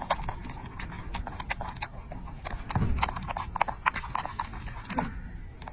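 An irregular run of sharp clicks or knocks, several a second, like hooves or hard taps on a firm surface.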